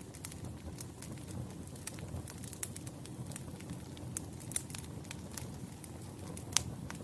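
Wood campfire burning: a steady low rumble of flames with irregular sharp crackles and pops of the burning logs, the loudest pop about six and a half seconds in.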